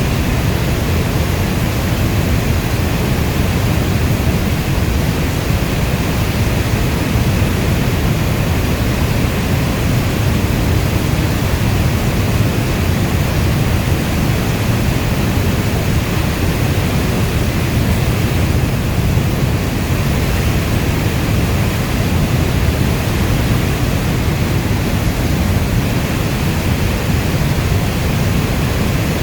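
Steady rainstorm ambience: a dense, even rush of rain noise, heaviest in the low end, with no single drops, thunderclaps or other events standing out.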